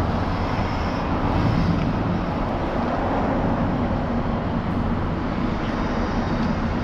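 A vehicle engine running steadily, a constant low rumble with no revving or sudden sounds.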